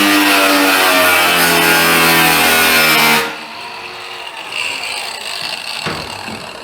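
A power tool cutting metal, a loud harsh grind with a motor whine that sags in pitch under load, then cuts off about three seconds in and leaves a fainter winding-down whine with a knock or two.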